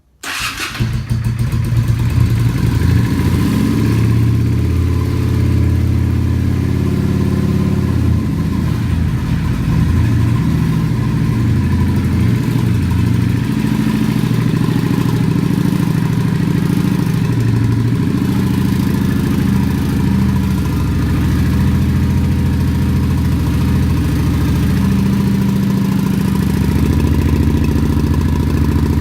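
Honda VRX 400's V-twin engine starting just after the beginning and then idling steadily through its stock mufflers with the baffle tubes ("flutes") removed, the idle wavering a little in places.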